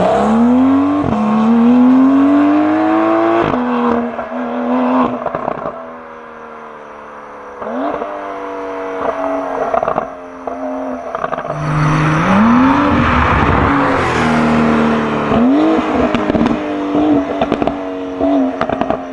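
A Porsche 992 Carrera S twin-turbo flat-six through a Fi Exhaust stainless sport exhaust, revving hard in several pulls. Each pull climbs in pitch and drops sharply at a gear change, with sharp crackles between pulls.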